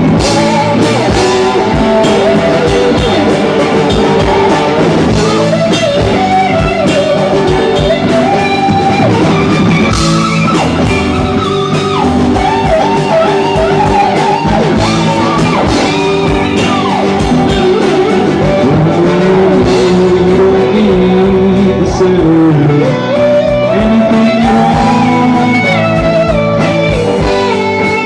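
Live rock band playing, with electric guitar, drums and singing.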